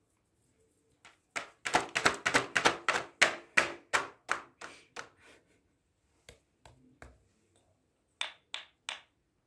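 A quick run of sharp taps, about five a second for four seconds, then a few scattered taps and three more near the end.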